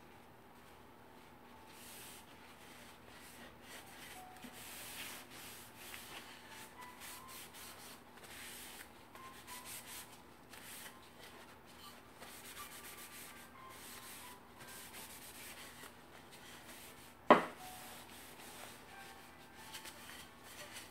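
Teak wood pieces being sanded by hand with sandpaper in short, irregular scratchy strokes. About three-quarters of the way through there is one sharp knock.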